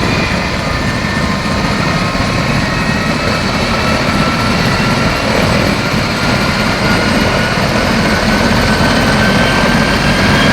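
Rescue helicopter running nearby: a steady rotor and engine noise with a turbine whine that slowly rises in pitch.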